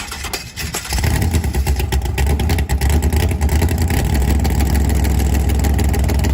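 Engine sound of a V8 drag car: it comes in loud about a second in and runs as a steady, lumpy, fast-pulsing low rumble.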